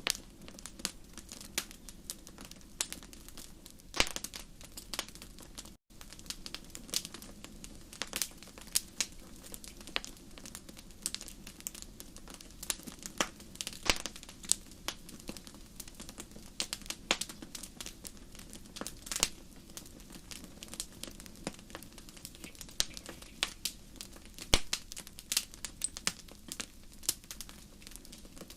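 Wood fire crackling in a fireplace: irregular sharp pops and snaps over a steady low rumble of the flames, with a brief dropout about six seconds in.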